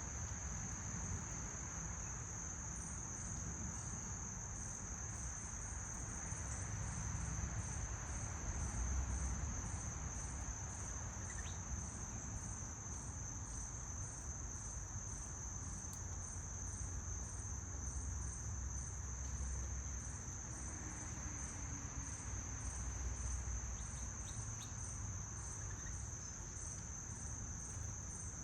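Insects trilling in one steady high note, with a regular pulsing chirp just above it, over a low rumble.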